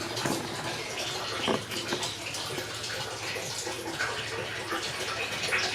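Water running steadily into a resealed Fluval Vicenza 260 aquarium as it is filled for a leak test, a continuous splashing hiss as the tank nears full.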